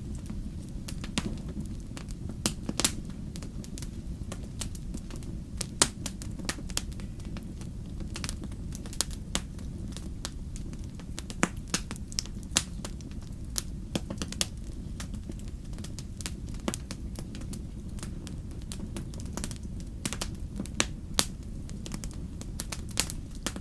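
Wood fire in a fireplace crackling: irregular sharp snaps and pops, several a second, over a steady low-pitched rush of the burning.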